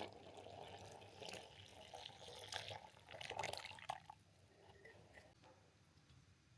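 Faint sound of water or liquid being handled for about four seconds, then dying down to near quiet.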